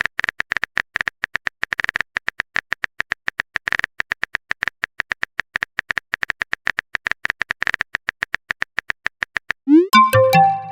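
Quick, uneven clicking of a typing sound effect, each click carrying a light high ring. Near the end the clicking gives way to a short electronic effect: a rising swoop and a few brief tones.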